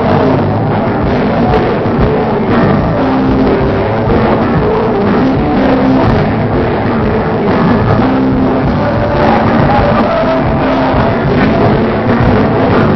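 Live band playing rock music, loud and continuous, recorded with a bandwidth-limited camera microphone.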